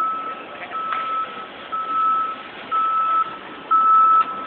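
Vehicle backup alarm beeping steadily, about one high-pitched beep a second, growing louder near the end, over a background of road and engine noise.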